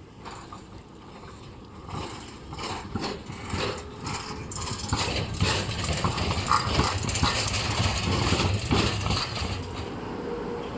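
A tram running on its rails, its wheels clicking and clattering over the track. It grows louder from about two seconds in, with a rumble building beneath the clicks.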